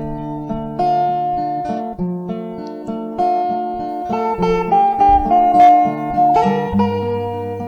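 Instrumental background music led by a plucked acoustic guitar playing a slow melody over held chords.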